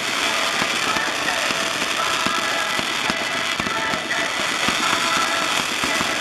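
Fireworks going off in a rapid, steady stream of crackles and pops, with music playing along.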